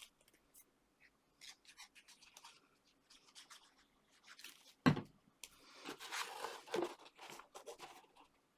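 Card and paper being handled and pressed into place by hand: light rustling and scraping, with one sharp knock about five seconds in and a brief burst of rustling shortly after.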